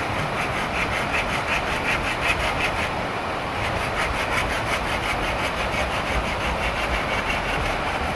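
Hand saw cutting through wood in quick back-and-forth strokes, about four a second, in two runs with a brief pause a little after three seconds. Steady heavy rain underneath.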